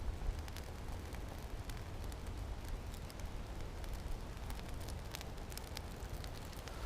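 Small campfire of birch bark and twigs just catching, crackling with scattered sharp snaps over a steady low rumble.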